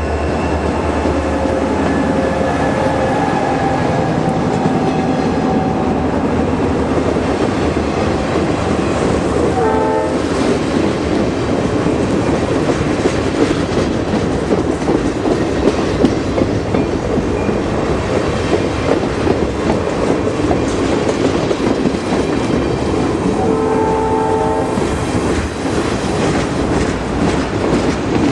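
Norfolk Southern freight train rolling past with a steady clatter of wheels over the rail joints. A short horn blast sounds about ten seconds in and a longer one near the end.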